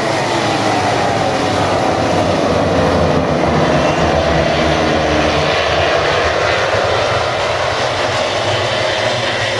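Pack of MotoGP bikes with 1000 cc four-cylinder racing engines at high revs as the field races away from the start, many engine notes overlapping. The pitch slides down over the first few seconds, then holds.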